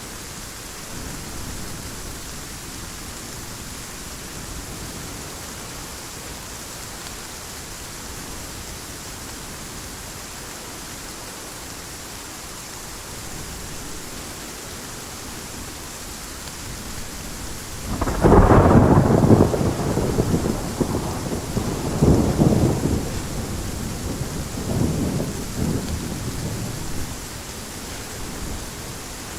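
Steady heavy rain, then a loud thunderclap about two-thirds of the way in. The thunder rolls on in two more rumbles before dying back under the rain.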